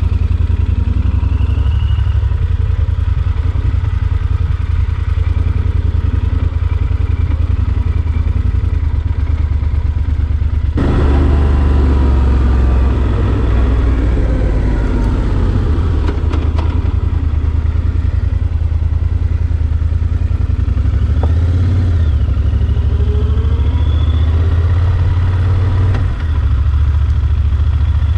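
Yamaha Super Ténéré XT1200Z's parallel-twin engine running steadily as the bike is ridden, with a deep low rumble. About eleven seconds in the sound changes abruptly and grows louder, with the engine pitch rising and falling after that.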